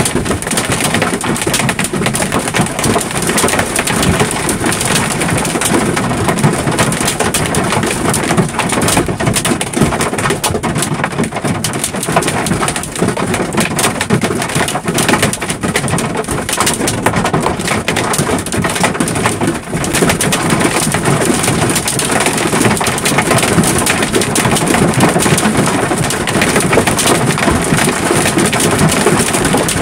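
Heavy hail, stones the size of golf balls, pelting a semi truck in a dense, continuous loud clatter of impacts.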